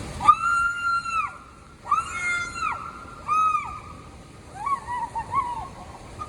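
High-pitched voice calls: three long, steady shouts or squeals, the last one short, followed by a quicker wavering call.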